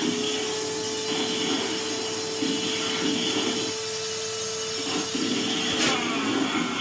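Henry vacuum cleaner running with a steady whine and hiss, its nozzle rubbing roughly over food and surfaces in uneven strokes. The whine stops just before the end.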